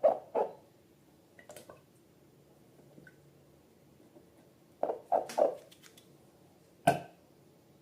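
Slime being squeezed and handled: a squelch just after the start, three quick squelches about five seconds in, and a sharp click near the end.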